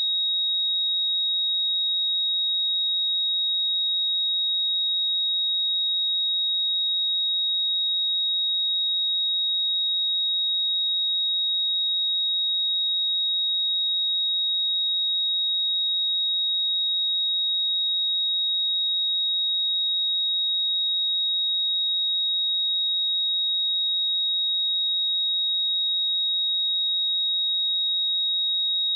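A pure 3781 Hz sine-wave test tone, one steady high-pitched whistle at constant pitch and level.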